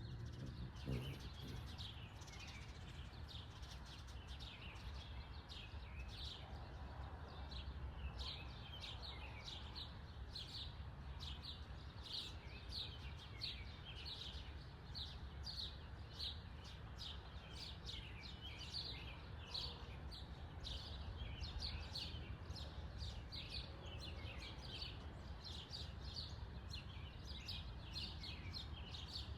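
A small bird chirping over and over, short high chirps about two a second, over a steady low background rumble.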